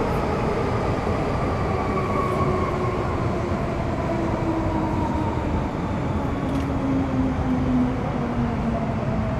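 Metro Cammell M-Train electric multiple unit running in the tunnel under rumble from its wheels and track. Its GEC GTO chopper traction equipment whines in several tones that fall steadily in pitch as the train slows.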